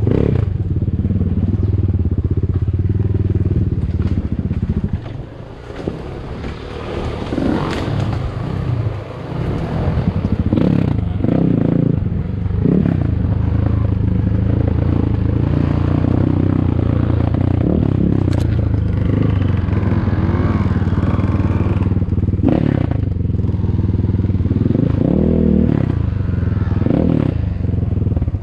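Enduro dirt bike engine running under load off-road. The engine note drops briefly about five and again about nine seconds in, with scattered knocks and clatter from the bike over rough ground.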